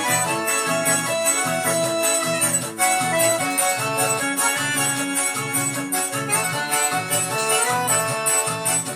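Electronic keyboard playing a festa junina instrumental: an accordion-like melody over a steady, pulsing bass beat.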